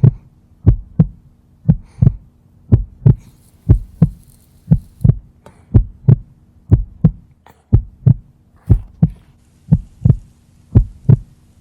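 Deep thumps in pairs, about one pair a second, in a steady heartbeat-like rhythm over a low steady hum.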